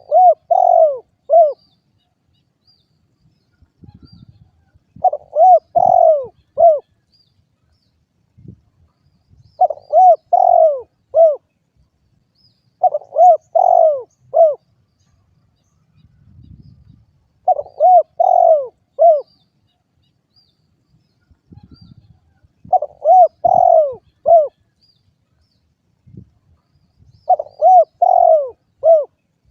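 Spotted dove (derkuku) cooing: a phrase of three or four arched coo notes, repeated seven times at intervals of about four to five seconds.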